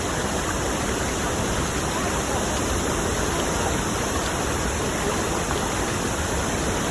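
Tad Yuang waterfall's falling water: a steady, even rush of noise that does not let up.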